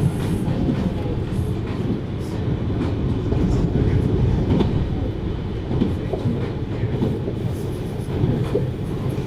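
JR Hokkaido 733 series electric multiple unit running at speed, heard from inside the car: a steady low rumble of wheels on rail with faint scattered clicks.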